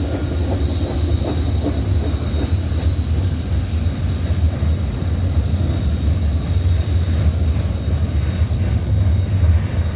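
Manifest freight train's cars rolling past: a steady low rumble of wheels on rail, with a thin, steady high-pitched wheel squeal over it.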